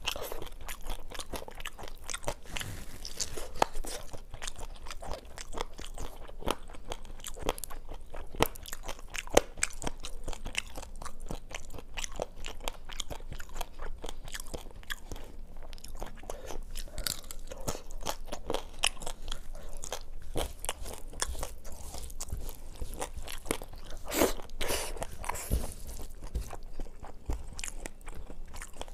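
Close-miked chewing and crunching: a person eating crisp fried food and rice by hand, with many small sharp crunches at an irregular pace.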